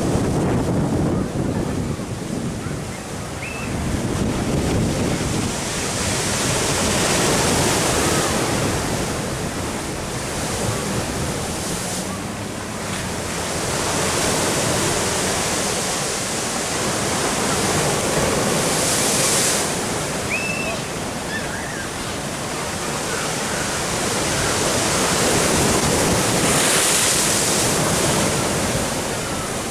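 Ocean surf washing in, the rush swelling and ebbing every several seconds, with wind buffeting the microphone.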